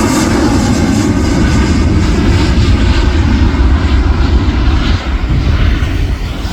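Airbus A321-211's twin CFM56 turbofan jet engines at takeoff power, a loud steady rumble. The higher hiss fades from about two seconds in as the airliner moves away.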